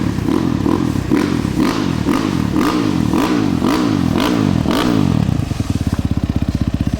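KEWS enduro dirt bike engine revved in quick, loud throttle blips, about two a second, then settling back to a steady idle a little after five seconds in.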